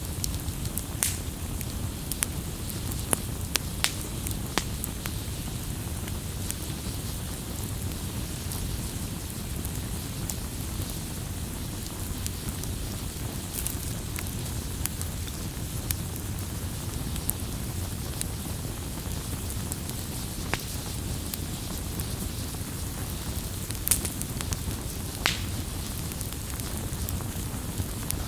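Wood campfire burning: a steady low rush of flames with scattered sharp crackles and pops.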